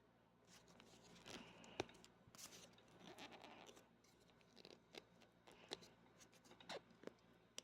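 Hands quietly handling packaging: faint rustling with scattered light clicks and taps, including one sharper click about two seconds in.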